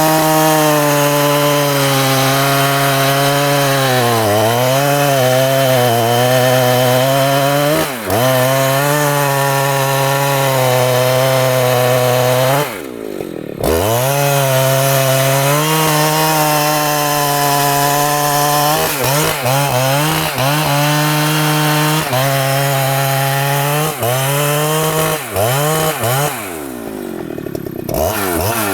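Large two-stroke Husqvarna chainsaw cutting wood at full throttle, its pitch wavering and sagging as it bogs under load. It drops briefly off the throttle about thirteen seconds in and again near the end, then revs back up.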